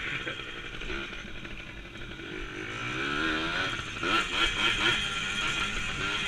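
Small 100cc dirt bike engine running as it is ridden, its revs rising and falling, with the biggest swings about three seconds in and again around four to five seconds.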